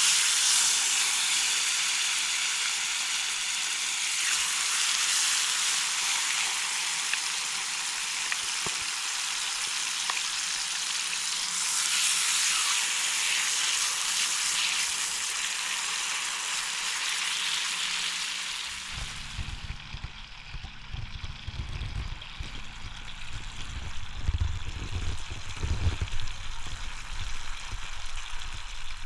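Food sizzling as it fries in a hot pan, a steady loud hiss. About two-thirds of the way through, the sizzle fades down and an uneven low rumble takes over.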